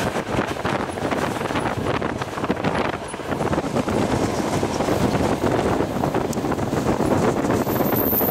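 Passenger train running at speed, heard from its window: steady wheel-and-rail noise with many fine clicks, mixed with wind rushing past the microphone.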